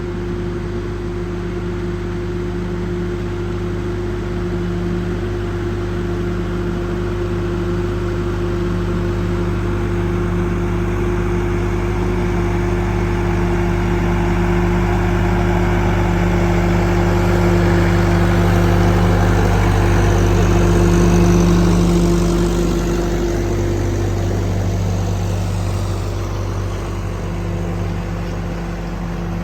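Allis-Chalmers tractor engine running steadily as the tractor makes a pass, growing louder to a peak about two-thirds of the way through and then fading as it moves away.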